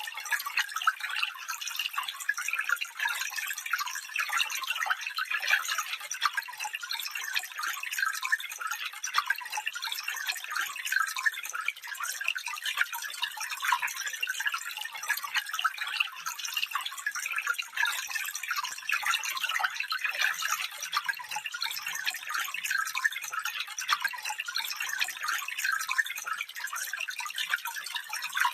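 Small stream flowing: a steady, bright trickle and babble of water with many small splashes, and almost no low rumble.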